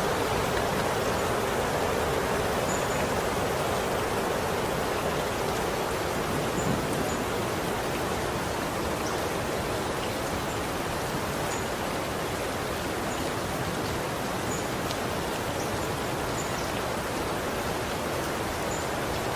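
Steady rain falling, an even hiss with a few faint high ticks scattered through it.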